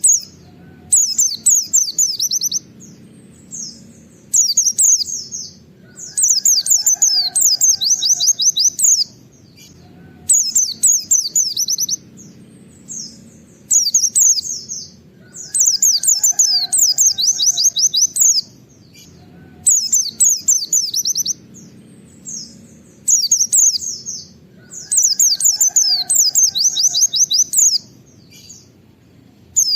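A white-eye (pleci) sings in repeated short bursts of rapid, high, falling whistled notes. Each burst is the fast 'wit wit' shooting phrase ('nembak') and lasts one to two seconds, with a new one every two to three seconds.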